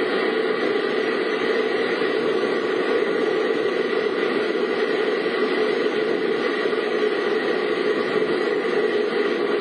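Steady, unbroken rushing noise in a vehicle cabin during typhoon rain: rain, wind and running noise blended together, with no distinct events.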